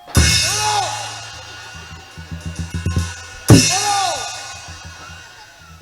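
Stage band drum kit playing an accent: a loud cymbal-and-bass-drum crash, then a run of drum beats that grows louder and quicker into a second crash about three and a half seconds later. A short tone that rises and falls follows each crash.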